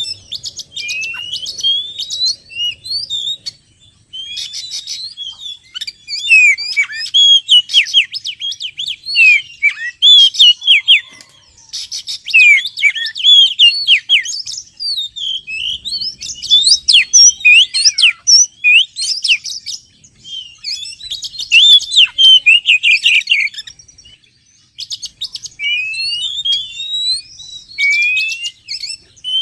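Oriental magpie-robin (kacer) singing loudly in runs of fast, varied whistled phrases, with rising and falling sweeps mixed with harsh buzzy notes and short pauses between runs. It is song used as a lure to draw wild magpie-robins in.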